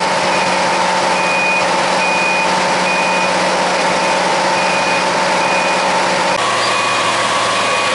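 Road construction machine reversing, its backup alarm beeping about once a second over the steady running of its engine. The engine's tone changes abruptly about six and a half seconds in.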